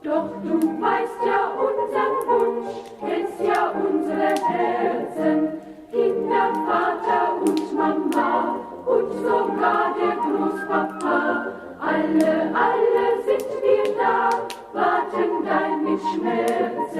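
Choir singing a Christmas song, with no audible instrumental backing.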